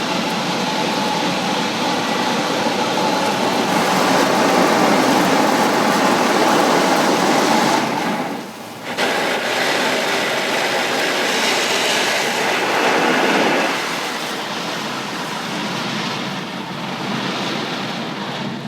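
Automatic car wash working over the car, heard from inside the cabin: a loud steady rush of water spray and machinery on the bodywork, dropping out briefly about eight seconds in.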